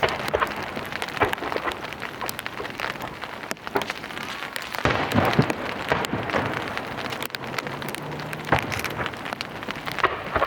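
Fireworks star mine barrage: a dense, irregular run of crackling pops and sharp cracks from bursting aerial shells, with a few heavier bursts about halfway and near the end.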